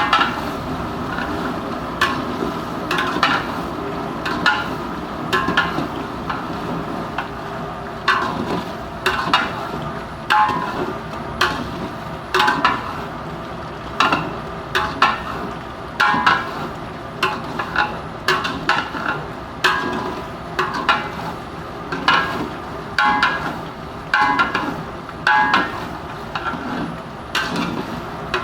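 A metal ladle or spatula scraping and knocking against a cooking pot in repeated strokes, about one or two a second, as chicken gizzards are stirred, over a steady hiss from the stove.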